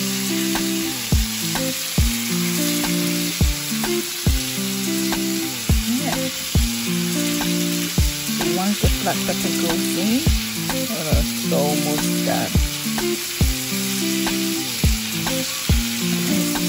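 Chicken thighs sizzling as they fry in olive oil in a pan, with a steady hiss. Background music with a slow, steady beat plays over it.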